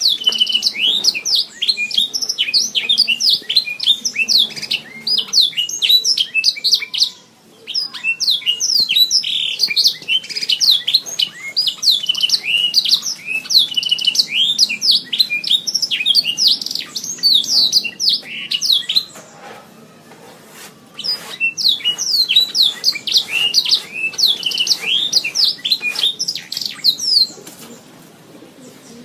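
Domestic canary singing a long, fast run of chirps and rolling trills, with a short break about a quarter of the way in, a longer pause past the middle, and the song ending shortly before the close.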